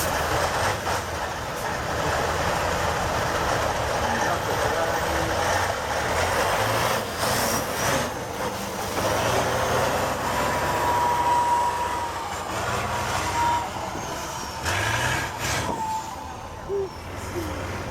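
Off-road competition truck's diesel engine running and revving hard, its pitch rising and falling as it works through the course.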